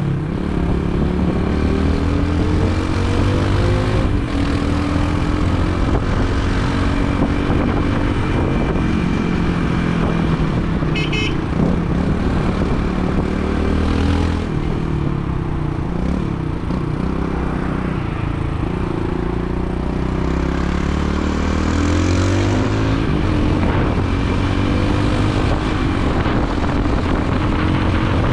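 Motorcycle engine running under way, its pitch rising and falling repeatedly as it speeds up and slows. A brief run of high beeps about eleven seconds in.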